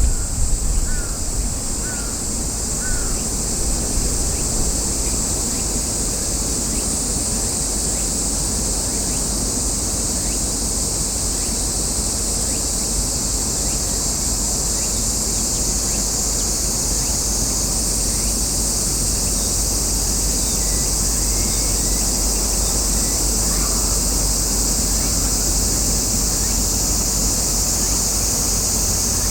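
A crow cawing three times in the first few seconds, with a few fainter calls later, over a steady high-pitched drone and the low rumble of wind on the microphone.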